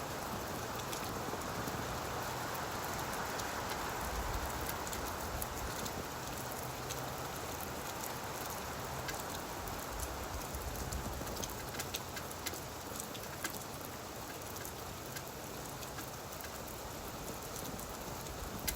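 Gentle rain falling on leaves: a steady, even hiss with scattered individual drops ticking through it.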